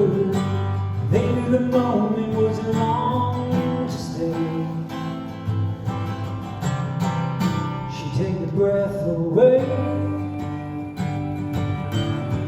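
Acoustic guitar strumming the song's instrumental outro, with chords held and changing.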